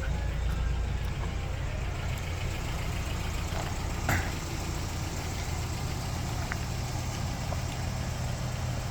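1987 Toyota pickup's engine idling steadily, warmed up after about twenty minutes of running. A single short click about four seconds in.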